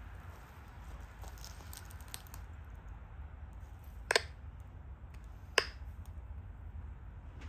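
Pressure flaking a stone Dalton point: a few faint ticks, then two sharp snaps about a second and a half apart as flakes pop off the edge.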